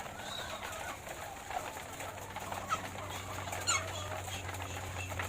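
A flock of laying hens clucking and calling, many short scattered calls, over a steady low hum.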